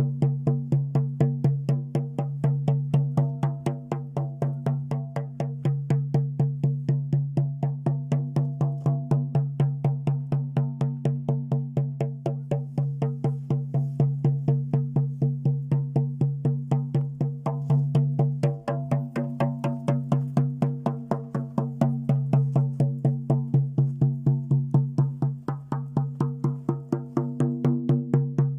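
Shaman's frame drum beaten in a fast, steady, unbroken rhythm, each stroke ringing with a low drone.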